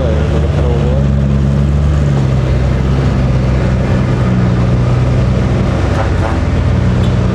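Heavy truck engine running loud and steady, its engine speed stepping up and down a few times.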